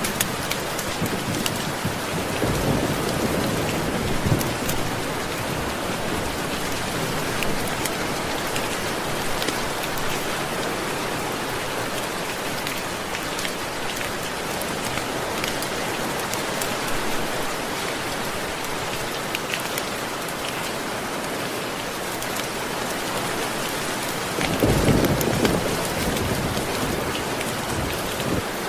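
Steady heavy rain falling, with two low rolls of thunder, one a few seconds in and a longer one near the end.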